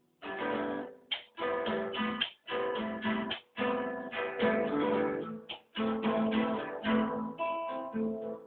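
Acoustic guitar strumming chords in a stop-start rhythm, each strum cut off by a short, near-silent break.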